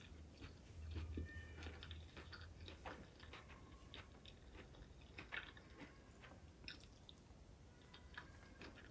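Faint chewing of a mouthful of salad greens, with soft, irregular small clicks and crunches.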